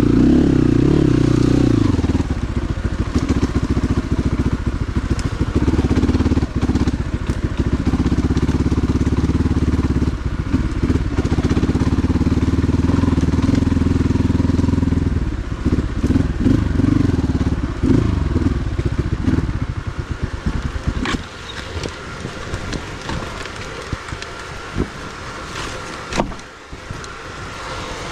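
Motorcycle engine running with its revs changing in steps, then dropping away and much quieter from about twenty seconds in.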